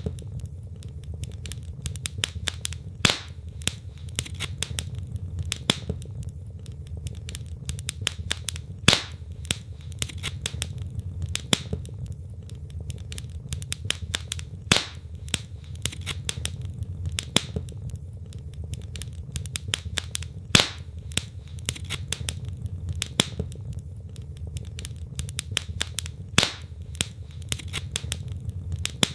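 Wood fire burning in a fireplace: logs crackling with many small snaps and a louder pop every few seconds, over a steady low rumble of the flames.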